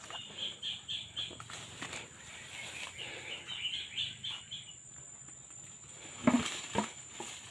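Outdoor rural ambience: a bird chirping in runs of quick high notes, over a steady thin high insect drone, with scattered light rustling clicks and a brief faint voice near the end.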